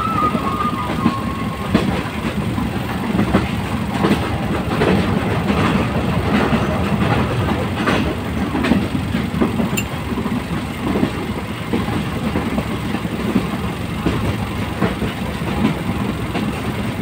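Train running along the track: a steady rumble with wheels clicking and clattering over the rail joints, the clicks thickest in the first half.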